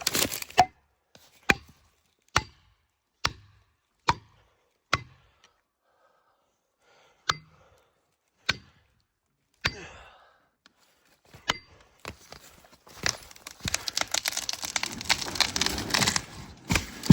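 Felling wedge being struck into a tree's back cut: about ten sharp knocks roughly a second apart. Then the tree goes over, with the wood cracking and a growing crash of breaking branches up to the end.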